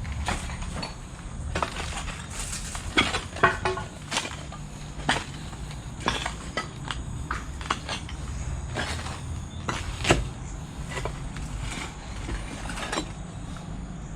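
Irregular clicks, knocks and crunches at an uneven pace, the loudest a few around three seconds in and one about ten seconds in, over a steady low rumble.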